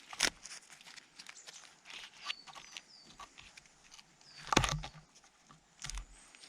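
Dry twigs and forest-floor litter crunching and snapping in irregular sharp cracks, with three louder snaps: about a third of a second in, near the five-second mark and near the end.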